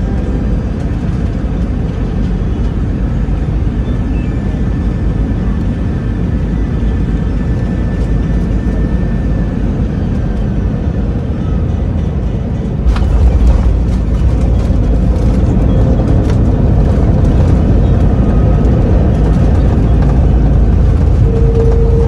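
Airbus A321 cabin noise from a window seat: a steady engine and airflow drone on final approach. About 13 seconds in it jumps to a louder low rumble with a few knocks, fitting main-gear touchdown and the rollout on the runway.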